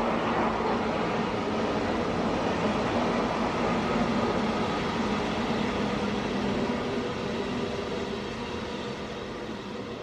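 Train running along the track: a steady rolling noise with a faint hum running through it, slowly fading over the last few seconds.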